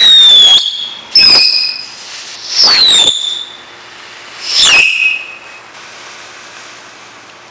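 Four loud firework bangs about one to two seconds apart, each with a short falling whistle.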